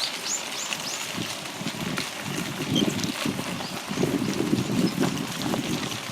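Outdoor ambience with uneven low gusts of wind buffeting the microphone, louder about halfway through. A few short, high bird chirps sound near the start.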